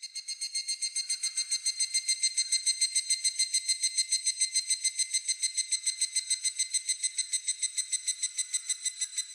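Higurashi (evening cicada) calling: a fast, even run of ringing, metallic notes, about eight a second, that swells up over the first second and holds steady.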